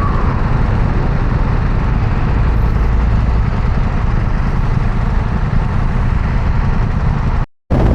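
Motorcycle underway: a steady rush of wind and engine noise on the rider's microphone, with a brief total dropout near the end.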